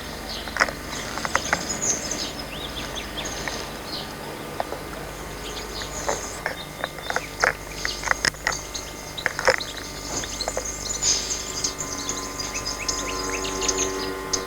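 Birds chirping, with many short, high calls over a steady background hum, and scattered sharp clicks and knocks throughout.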